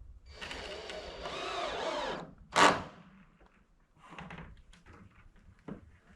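A scraping, sliding sound for about two seconds, then one loud knock.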